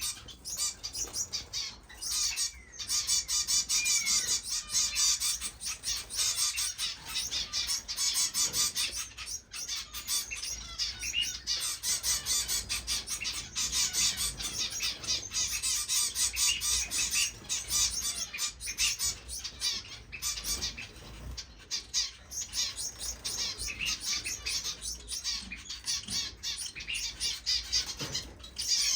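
A room full of small captive finches chirping and calling all at once: a dense, continuous high twittering.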